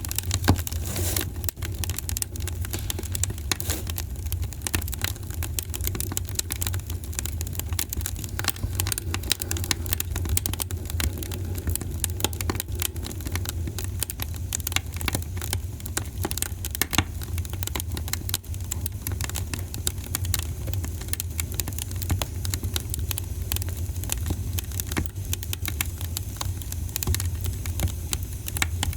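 Wood fire crackling in a fireplace: frequent small irregular pops and snaps over a steady low rumble.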